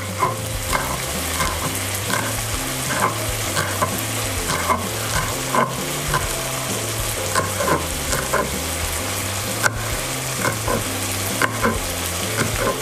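A kitchen knife slicing spring onion against a plastic cutting board, in irregular taps about every half second to a second. Under it runs a steady sizzle from a pan of shrimp frying in sauce.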